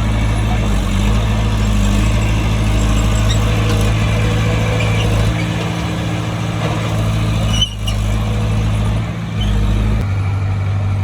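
Bulldozer's diesel engine running steadily with a low, even hum. Its note shifts a few times, with a brief break in the sound about eight seconds in.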